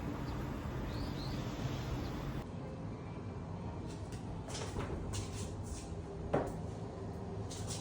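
Steady background noise, then after an abrupt change a few short rustles and one sharp click about six seconds in, the loudest sound.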